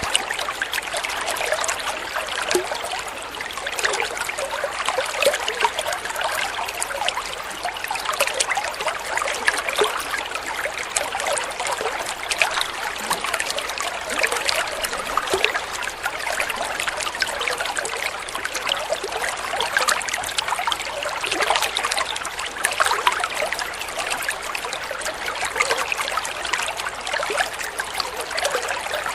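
Flowing water trickling and splashing steadily, full of small bright bubbling splashes, with no deep rumble.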